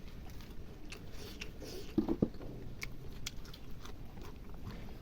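Close-up eating sounds: biting and chewing with small wet clicks, and two louder knocks close together about two seconds in.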